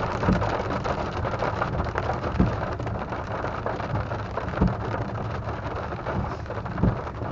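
Rain pattering on the chase vehicle, a steady hiss of fine drop ticks, with a dull thump about every two seconds.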